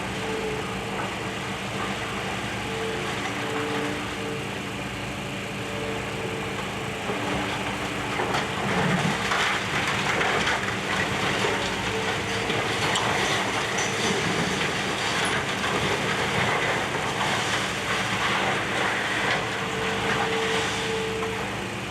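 Demolition excavator's diesel engine running steadily as it breaks up a building, with crunching and clattering of debris that grows louder about a third of the way in.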